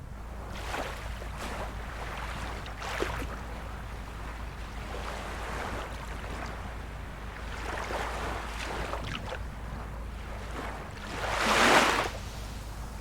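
Calm sea waves washing in and lapping on the shore in soft repeated surges, with one louder wave breaking about eleven seconds in.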